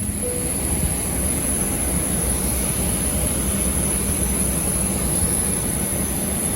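Steady noise of a jet airliner's turbine, a low rumble under a high, thin whine that comes in abruptly.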